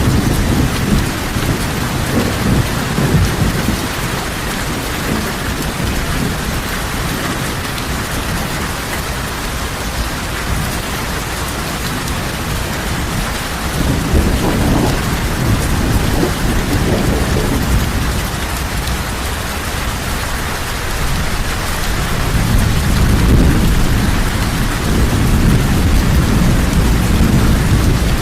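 Heavy rain falling steadily, with low rolling thunder swelling and fading several times, loudest near the end.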